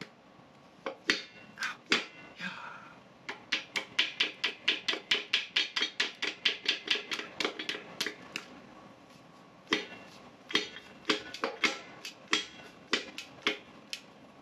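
Repeated sharp hammer taps driving a piston out of a small-block Chevy 350 cylinder, forcing its rings past a bad ring ridge. A few spaced blows, then a fast run of about three to four a second from about three seconds in, then slower, spaced blows again.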